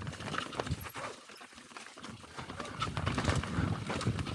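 Mountain bike rolling down a rough trail: irregular knocks and rattles as it goes over the ground. It dips quieter about a second in, then tyre rumble and wind noise build toward the end.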